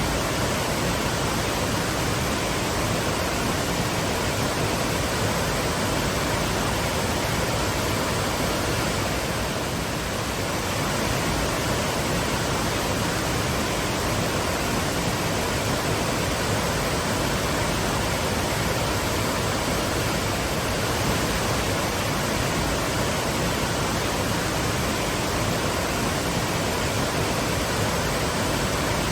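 Twin waterfalls rushing steadily: a loud, even roar of falling water with no breaks.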